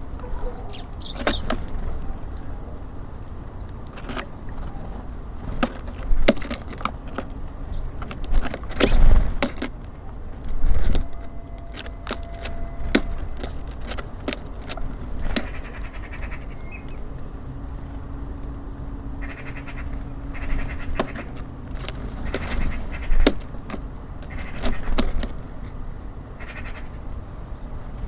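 Small birds at a wooden bird feeder, making irregular taps and knocks as they peck at seed and land, with heavier thumps about nine and eleven seconds in. A steady low rumble of city traffic runs underneath.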